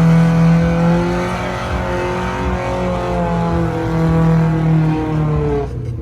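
Car engine revved hard and held at high revs, its pitch wavering slightly, then dropping away near the end.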